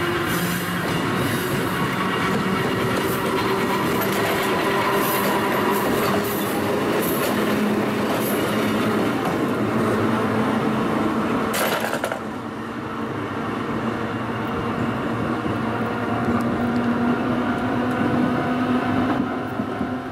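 A vintage Kotoden electric railcar passes close by, a steady rumble and clatter of wheels on the rails with a motor hum. About halfway through comes a sharp click, after which the sound dulls and eases as the car moves off.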